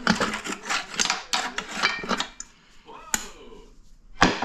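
Metal parts of a 4L60 automatic transmission clinking and clattering as they are handled and pulled apart during teardown. A quick run of clinks comes first, then a quieter spell, and a loud clank near the end.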